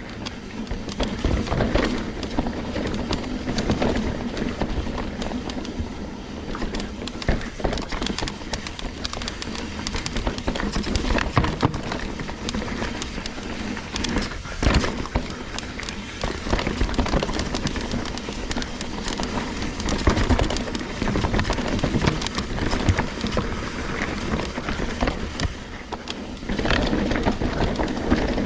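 Trek Slash 9.8 full-suspension mountain bike ridden on dirt singletrack: a continuous rush of tyres and wind, broken by frequent knocks and rattles as the bike goes over bumps and roots.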